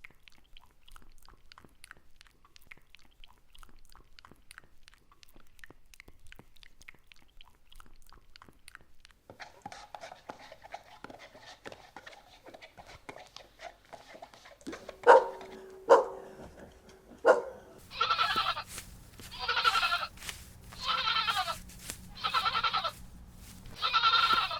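An animal calling five times in a row near the end, each call about a second long and evenly spaced, just after three short, sharp, loud sounds. Faint clicking runs before them.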